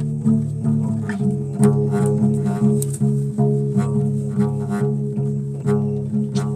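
Solo bass guitar played live: a steady run of plucked low notes, several a second, each with a sharp attack.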